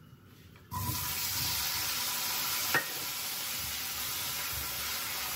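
Diced potatoes dropped into hot oil with roasted cumin, bursting into a steady sizzle a little under a second in as they start to fry, stirred with a spatula. One sharp knock a little under three seconds in.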